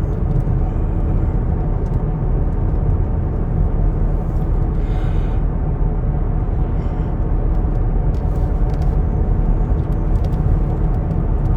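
Steady road and engine rumble heard from inside a moving car, with a brief hiss about five seconds in.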